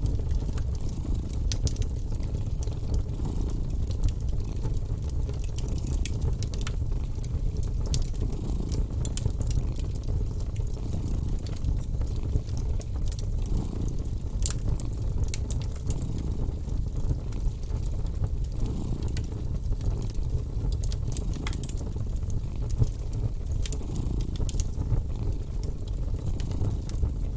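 Fireplace crackling with sharp, irregular pops over the continuous low rumble of a cat purring.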